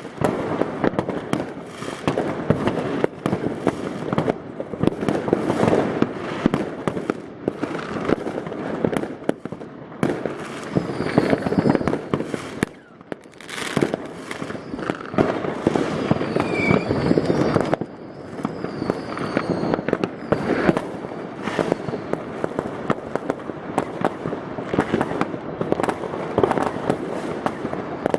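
Many New Year's Eve fireworks and firecrackers going off all around at once: a dense, continuous barrage of bangs and crackling with a brief lull about halfway through. A few faint whistles rise and fall in the middle of it.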